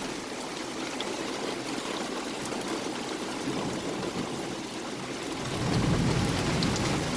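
Very heavy rain pouring down steadily. A low rumble swells near the end.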